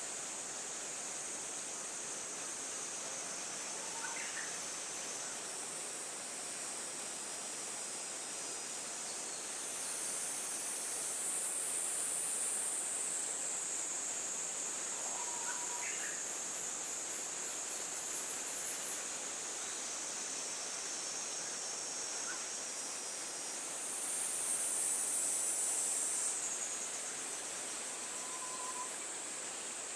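Insect chorus: a steady high-pitched trill. It rises in pitch and grows louder twice, about ten seconds in and again near the end, with a few faint short chirps over it.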